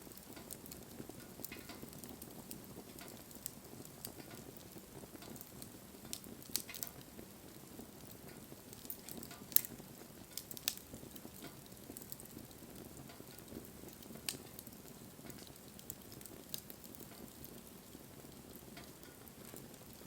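Campfire burning: a steady low hiss from the flames with scattered sharp crackles and pops, the loudest about ten seconds in.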